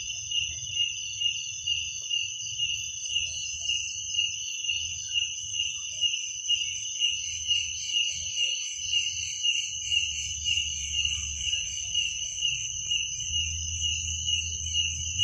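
Crickets chirping, a steady high-pitched trill that pulses about twice a second, over a faint low rumble.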